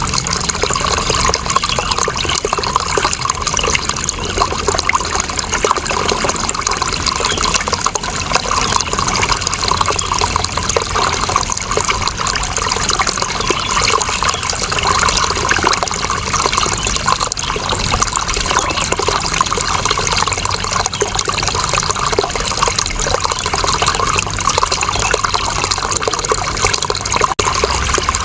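Running water, a steady trickling and splashing flow with no change in level.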